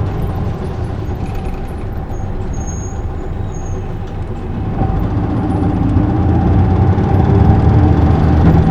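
Isuzu Erga city bus's diesel engine running under way, heard inside the cabin, with a steady hum that grows louder through the second half as the bus picks up.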